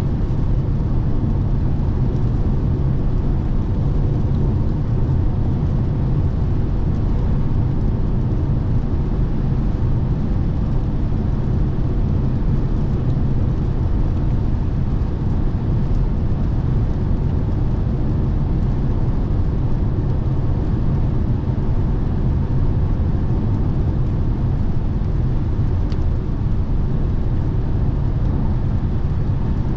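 Steady low rumble of road and tyre noise from a Lexus NX 300h hybrid cruising on the motorway, heard from inside the cabin, holding an even level throughout.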